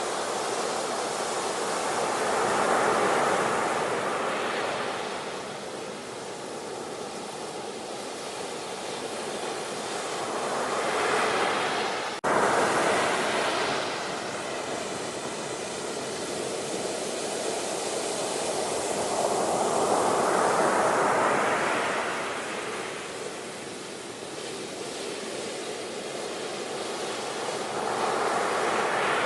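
Ocean waves breaking and washing in, swelling and fading roughly every eight to nine seconds, with an abrupt cut about twelve seconds in.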